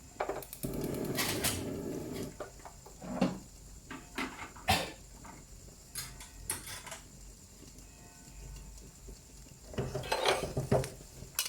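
Metal utensils clinking and knocking against pots and pans in a series of separate sharp strikes, with a short stretch of scraping about a second in and a quicker run of clinks near the end.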